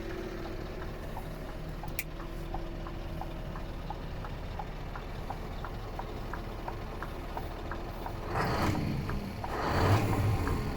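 Scania R560's V8 diesel engine idling steadily with a light regular ticking, then revved in short bursts, the first about eight seconds in.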